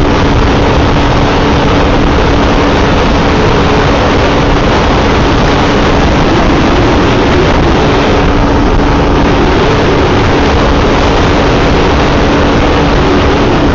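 Wind rushing over the microphone and road noise from a motorcycle ridden at a steady speed, with the constant drone of a Yamaha FZ V3's single-cylinder engine holding one pitch.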